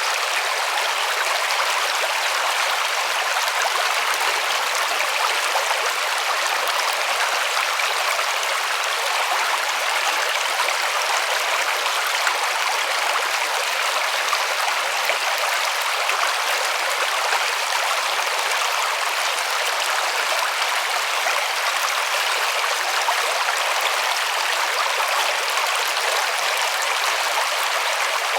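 A river rushing steadily over stones, an even hiss of running water with no let-up.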